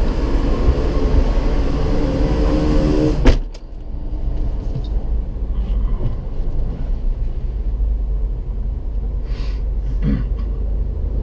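Car's power window rolling up with a motor whine against loud street traffic, shutting with a sharp thunk about three seconds in; after that the traffic is muffled and only a steady low rumble from the stopped car remains.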